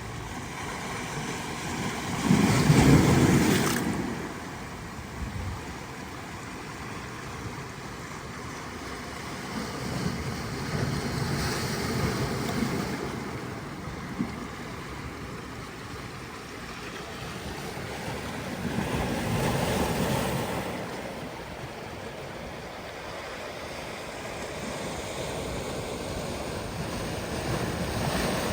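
Ocean surf: waves breaking and washing in over a steady rush of water, swelling about every eight to nine seconds, the loudest about three seconds in.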